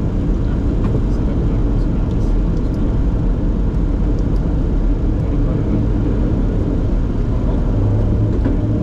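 Steady, loud rumble inside the cockpit of a Bombardier Challenger 604 business jet: engine and airflow noise heard from the flight deck, deep and even with no change in pitch.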